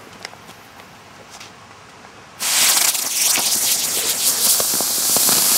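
A lit pyrotechnic device flaring up about two and a half seconds in with a sudden loud hiss, then burning on with a steady hiss and crackling rather than exploding.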